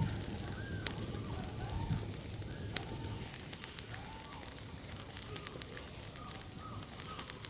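A chorus of foxes calling: many overlapping wavering cries that rise and fall, over a crackling bonfire. The fire gives sharp pops about a second in and near three seconds.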